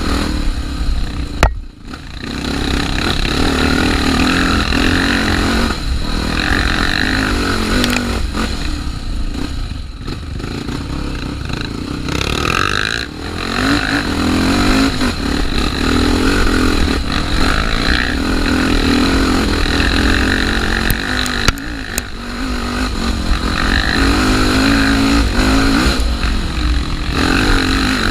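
Honda Tornado trail motorcycle's single-cylinder engine pulling under load on a dirt trail, its pitch rising and falling as the throttle is worked. The engine drops off sharply about two seconds in, and briefly again a few times later.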